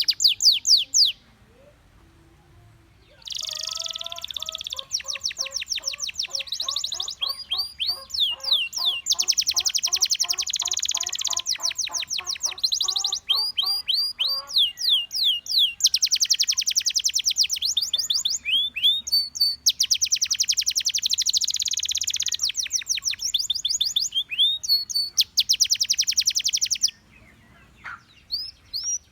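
Gloster canary singing: fast trills and rolls with runs of repeated downward-sweeping whistled notes, with lower, quick notes underneath in the first half. The song comes in long phrases, with a pause about a second in and another near the end.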